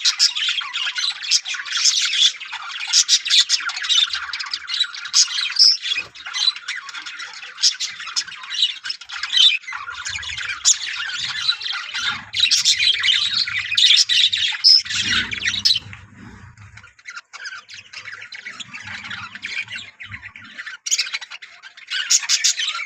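A colony of budgerigars chattering, with rapid chirps and squawks from many birds at once; the chatter thins out about two-thirds of the way through and picks up again near the end.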